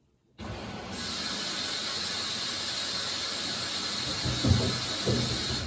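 Samsung front-loading washer-dryer's water inlet opening with a sudden steady hiss of water rushing in, growing louder about a second in, as the machine fills.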